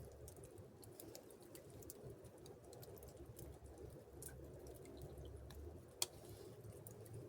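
Near silence: a faint steady low rumble with scattered light ticks, and one sharper click about six seconds in.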